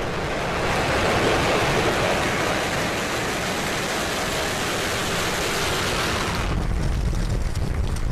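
Falcon 9 rocket lifting off: the nine Merlin 1D first-stage engines make a loud, steady rushing noise. About six and a half seconds in, the hiss drops away and leaves a deep rumble.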